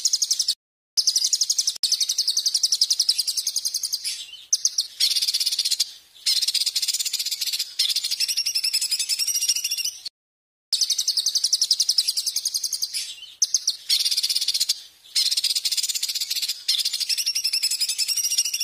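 A songbird singing loud, shrill, very fast trills in runs of a few seconds, broken by short pauses; it cuts out for a moment about ten seconds in and then carries on.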